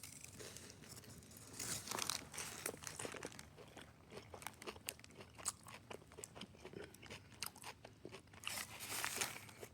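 Close-miked biting and chewing of a Subway turkey and ham protein pocket with crunchy fillings. A loud crunchy bite comes about two seconds in, then steady wet chewing and crunching, and another loud crunch near the end.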